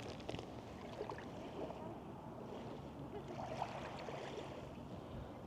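Small lake waves lapping at the shore, a low steady wash of water with a few faint splashes, and distant voices faintly in the background.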